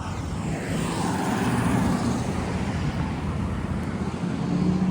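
A motor vehicle drives past, its tyre and engine noise swelling over the first couple of seconds and then fading. About four seconds in, a steady low engine drone sets in.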